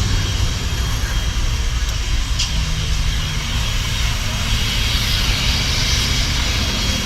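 A large engine running steadily with an even low rumble, over a constant hiss.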